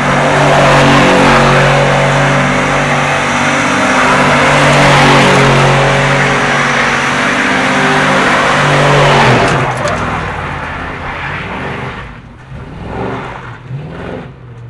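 Ford Mustang doing a burnout: the engine held at high, steady revs over a loud hiss of spinning tyres for about nine and a half seconds, then the revs fall away, followed by a few short throttle blips near the end.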